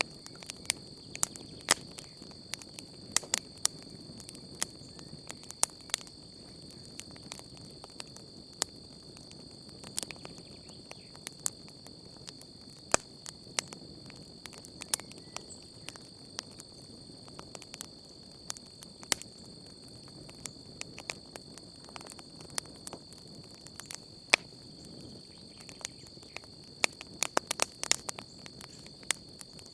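Wood campfire crackling, with irregular sharp pops several times a second, some louder than others, over a soft low hiss. Underneath runs a steady high-pitched trill of crickets.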